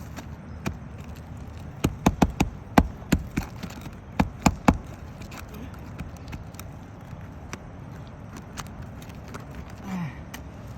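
Sharp hand-tool taps on a shingle roof: a quick run of about six knocks, then a pause and three more.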